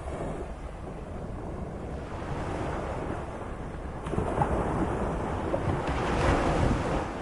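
Moderate sea, waves surging and washing in, with a swell that builds about four seconds in and is loudest near the end. Wind rumbles on the microphone underneath.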